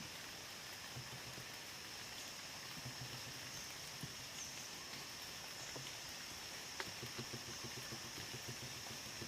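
Quiet outdoor ambience: a steady high-pitched drone over a faint hiss, with scattered light clicks and taps.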